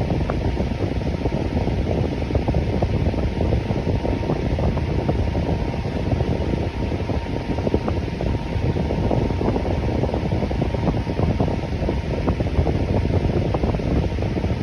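Electric fan running steadily: an even, unbroken rush of air, strongest in the low range, with a faint steady hum that fades out about midway.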